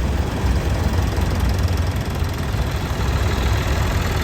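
Vintage tractor engine idling, a steady low-pitched running.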